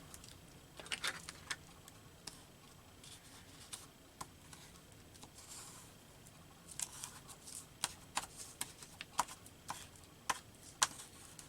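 Scattered light taps and clicks with a little soft paper rustling, from hands handling paper and craft tools at a work surface while gluing a collage. The taps come more often in the second half.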